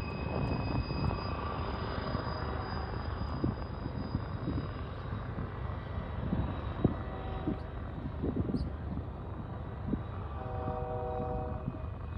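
Manifest freight train rolling by: a steady rumble of the cars on the rails with scattered knocks and clanks. A brief ringing tone about ten seconds in.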